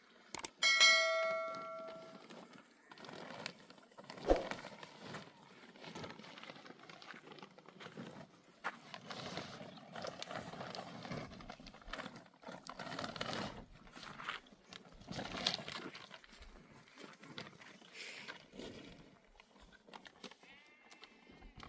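Livestock bleating: one clear, loud call about a second in, then scattered animal noises.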